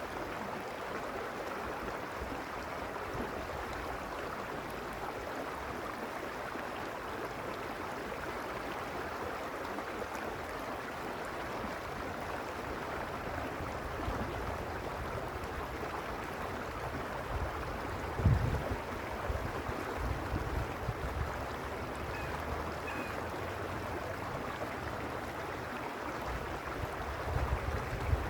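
Water of the Arroyo Uspallata stream running with a steady rush. Low buffeting bursts of wind on the microphone come about 18 seconds in and again near the end.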